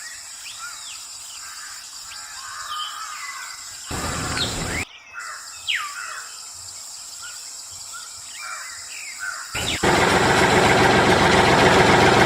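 Small birds chirping and calling repeatedly, with a short burst of hissing noise about a third of the way in. Near the end, a loud, steady, rushing noise starts suddenly and drowns out the birds.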